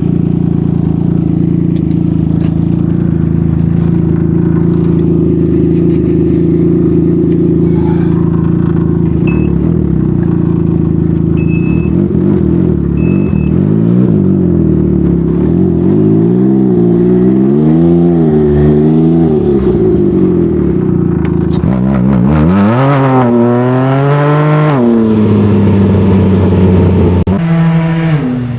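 Can-Am Ryker Rally's three-cylinder Rotax engine through an RLS Twin Kaos exhaust with its baffle removed, idling steadily, then blipped several times from about halfway, with one bigger rev a few seconds later and a short blip near the end.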